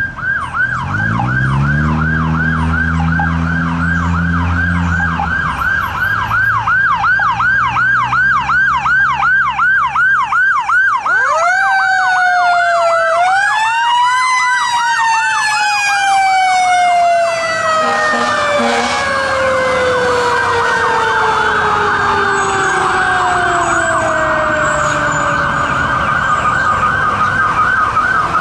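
Fire engine responding with its electronic siren on a fast yelp, the truck's engine pulling hard in the first few seconds. About 11 seconds in, a Federal Q2B mechanical siren winds up for a few seconds, then slowly winds down in a long falling moan while the electronic siren keeps cycling.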